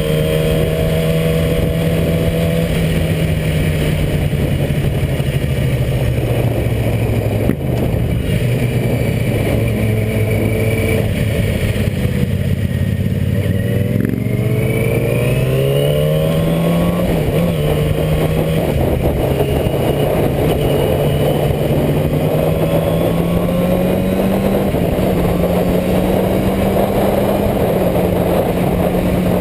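Motorcycle engine running continuously over a steady rush of noise, its pitch sinking slowly over the first several seconds, then climbing around the middle and holding at a higher pitch.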